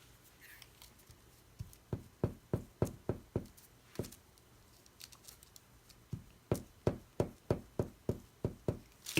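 Light taps on a tabletop, about three a second, in two runs of several taps each with a pause between them, as a paper cutout is patted down onto a journal page.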